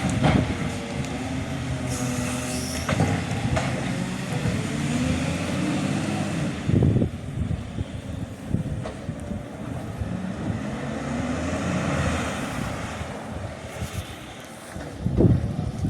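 Garbage truck's diesel engine running steadily, with several knocks and clunks over it.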